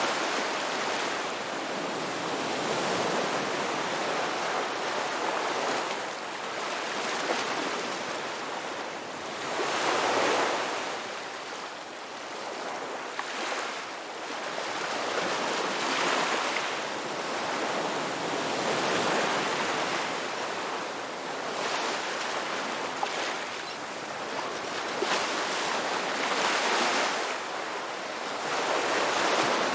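Ocean waves breaking and washing on a rocky shore, a steady surf that swells in a fresh wave every few seconds.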